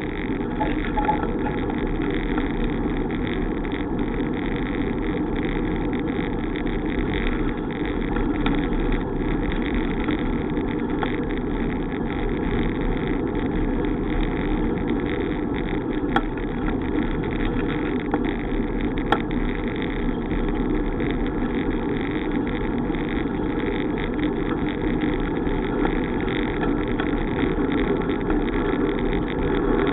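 Steady rushing noise of riding a bicycle, with two sharp clicks a little past halfway, about three seconds apart.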